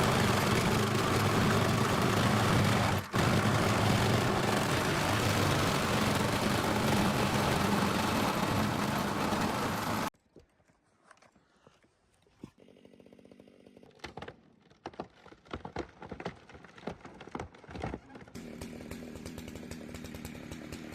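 A motor running loud and steady for about ten seconds, with a brief dip about three seconds in, then cutting off abruptly. Faint scattered knocks and clicks follow.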